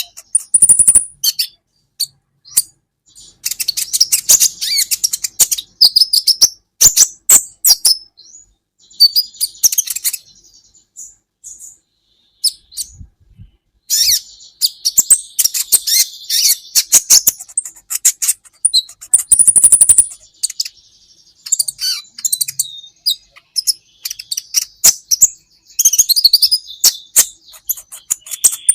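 Kolibri ninja sunbird singing: bursts of rapid, high-pitched chirps and twittering trills separated by short pauses, with a longer lull about halfway through.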